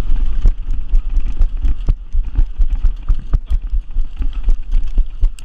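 Running footsteps with gear rattling, over wind buffeting the microphone: irregular thuds two or three times a second.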